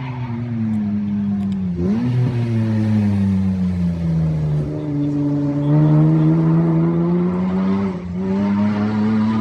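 Rally car engine slowing for a corner, with a quick rev blip on a downshift about two seconds in, then pulling away with the pitch climbing and a gear change about eight seconds in.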